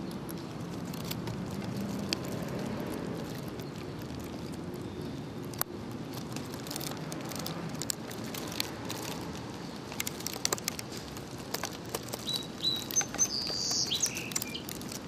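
Outdoor ambience: a steady low background noise with scattered sharp clicks that grow more frequent in the second half, and a small bird chirping a few short high notes near the end.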